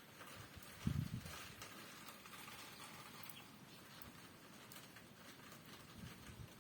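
Light rain pattering with faint scattered drops. Wind buffets the microphone in a short low rumble about a second in, and again faintly near the end.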